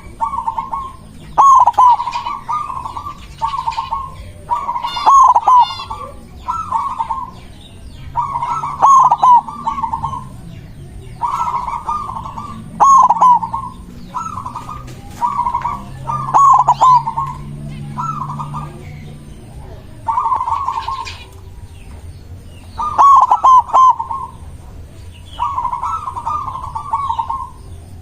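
Zebra dove (perkutut), the white variety, singing its repeated staccato cooing phrases, one phrase about every two seconds, with thin higher chirps mixed in.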